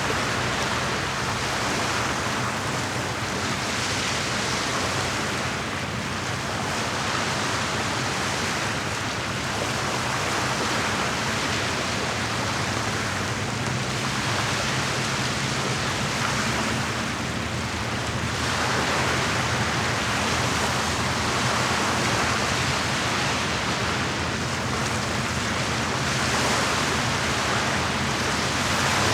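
Lake water washing against the shore in slow swells every few seconds, over a steady low hum.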